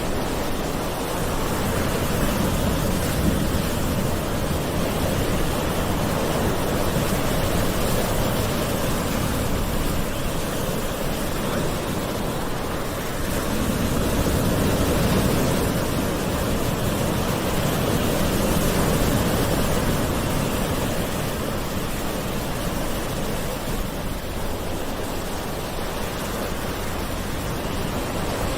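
Ocean surf: waves breaking and washing in as a continuous rush of water that slowly swells and eases every several seconds.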